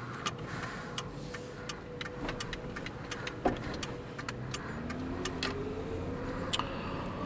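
Inside the cabin of a Ford Panther-platform sedan, the 4.6-litre V8 and the tyres give a steady low drone on the move. The engine note rises from about five seconds in as the car accelerates, freshly started from a cold soak. Scattered sharp clicks and ticks run through it at an irregular pace.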